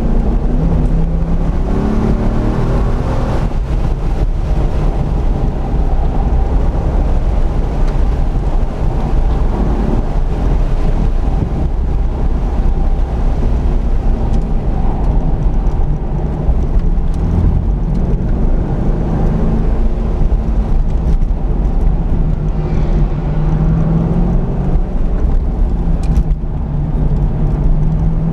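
C5 Corvette Z06's LS6 V8 heard from inside the cabin under hard driving, its revs rising and falling as it accelerates and lifts, over a heavy low rumble of road and drivetrain noise.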